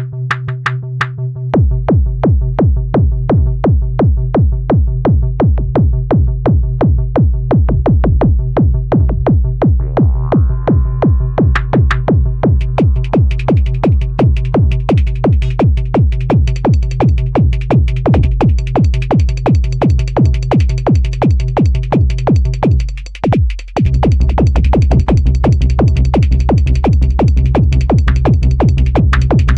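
Electronic dance music played live on a Korg Electribe 2 groovebox: a steady four-on-the-floor drum-machine kick, about two beats a second, over held bass and synth tones. The kick comes in about a second and a half in. Near the end the beat drops out briefly, then returns with a deeper bass and busier high percussion.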